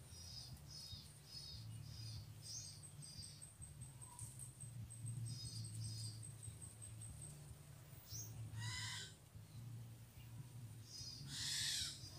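A bird calling: runs of short, high chirps at about two a second, and two louder, fuller calls, one about two-thirds through and one near the end. A faint, fast-pulsing high tone runs through the middle, over a steady low hum.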